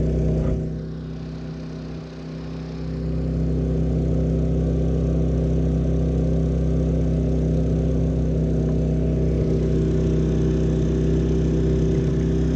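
Champion 3400-watt dual fuel inverter generator running steadily with no load in normal (non-economy) mode, heard from about 23 feet away. The hum dips for about two seconds near the start, then holds steady.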